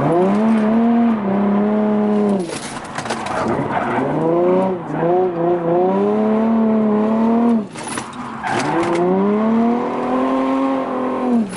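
Drift car's engine revving hard three times, each time climbing, holding high and then dropping off the throttle, with short stretches of tire noise in between as the car slides.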